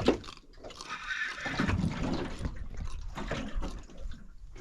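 Water sloshing and dripping, uneven and irregular, loudest about a second or two in.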